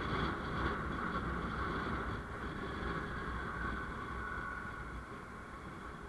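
Vehicle engine and road noise while driving: a steady low rumble with a hum, easing slightly toward the end.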